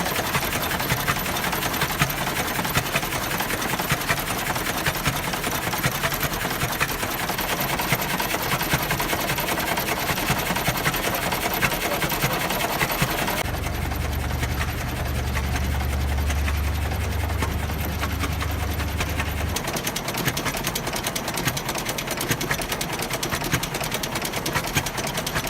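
International Harvester Titan 10-20 tractor engine running steadily, its exposed valve gear and workings making a rapid, continuous mechanical clatter. A deeper drone joins for several seconds about midway.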